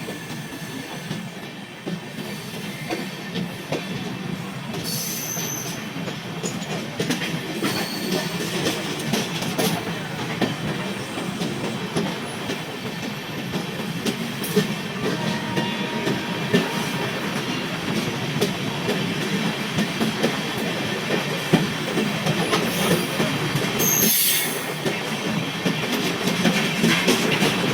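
Sampoorna Kranti Express passenger train running by, its coaches rumbling steadily and wheels clicking over rail joints, with brief high wheel squeals a few times; it gets a little louder near the end.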